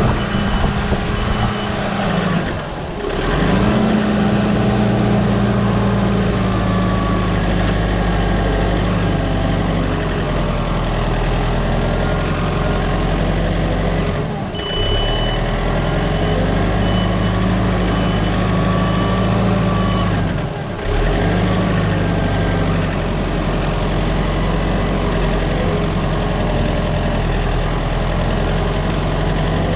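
A machine's engine running steadily, with short high beeps of a reversing alarm repeating at the start and again midway. The sound breaks off briefly three times.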